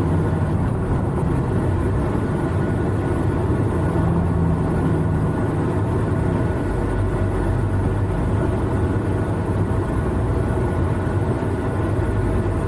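Semi truck's diesel engine and road noise heard inside the cab: a steady low rumble and hum with no sudden changes.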